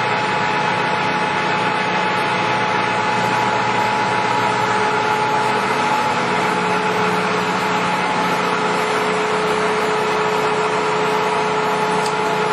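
American Model C heavy-duty engine lathe running with its spindle turning, driven by its 20 hp main motor. It makes a steady machine whir with two constant whining tones, one high and one lower, at an even level throughout.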